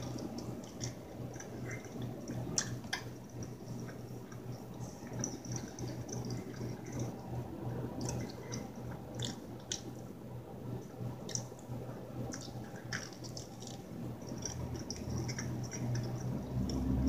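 Close-up wet chewing of a mouthful of thick, cheesy pizza, with soft squishing and many short lip-smacking clicks scattered throughout.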